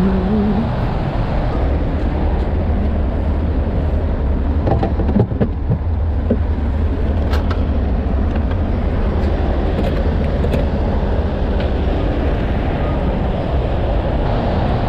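A vehicle engine rumbling steadily at a low pitch, with a few short clinks and knocks about five seconds in.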